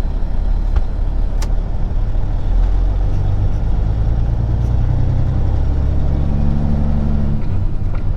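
Peterbilt 379 semi truck's diesel engine pulling away under load: a heavy, steady rumble whose pitch climbs from a few seconds in, then drops near the end.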